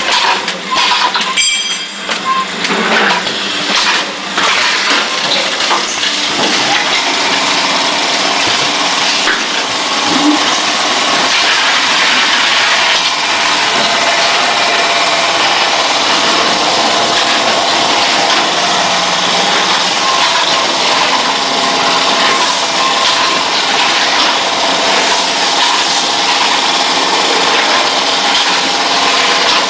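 Automatic carton box packaging machine running with a steady mechanical noise, with a few sharp clicks in the first few seconds.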